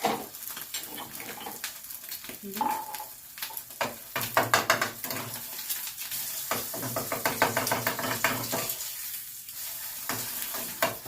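An egg frying in a pan, sizzling, with repeated clicks and scrapes of a utensil against the pan.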